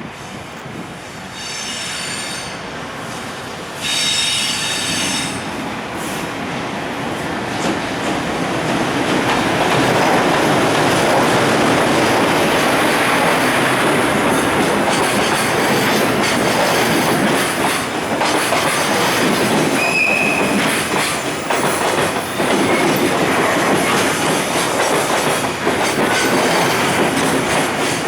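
Freight train of container wagons rolling past while arriving at a station, wheels clicking over rail joints, getting louder about eight seconds in. Two short high squeals come in the first few seconds, and a brief one about twenty seconds in.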